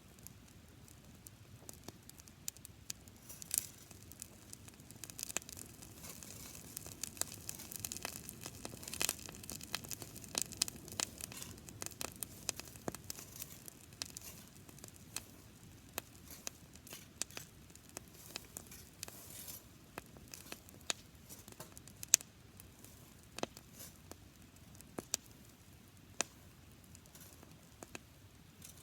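Campfire of dry dead grass crackling, with sharp pops and snaps scattered throughout, busiest in the first half.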